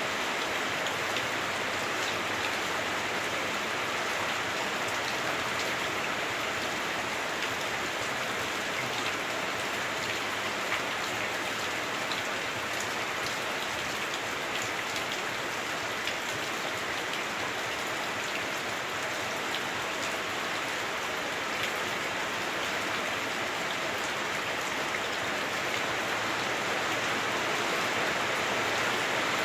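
Heavy rain on a house roof, heard from inside: a dense, steady hiss flecked with many small drop ticks, growing a little louder near the end.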